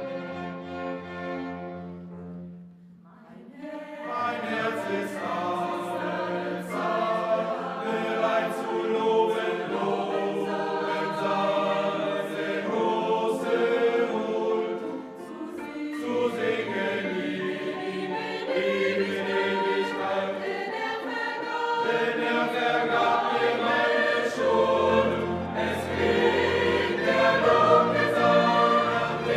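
Background music: a choir singing with orchestral accompaniment, after a sustained string note fades out about three seconds in.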